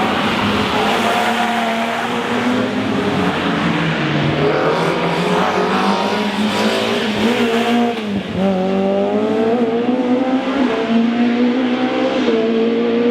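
Rally car engine running hard: the note climbs, drops back and climbs again several times as the car goes through the gears, with a deeper drop about eight seconds in.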